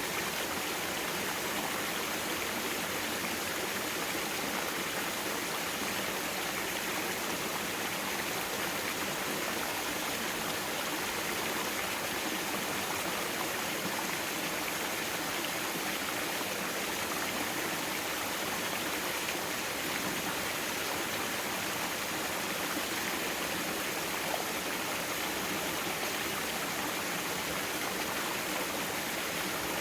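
Mountain valley stream flowing steadily over rocks, a constant rushing of water.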